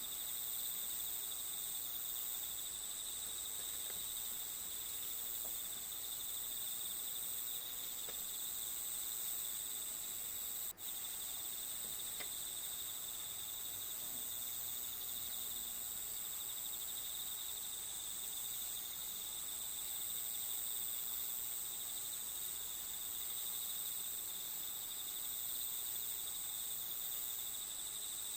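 Crickets chirring in a steady, continuous high-pitched chorus, with a momentary dropout about eleven seconds in.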